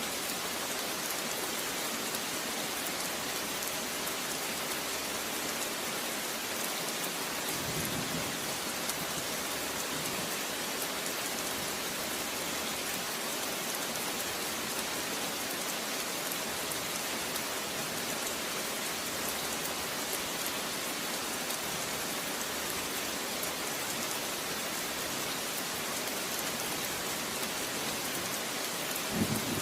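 Steady rain falling on a surface, an even hiss without a break. A brief low rumble rises under it about eight seconds in and again near the end.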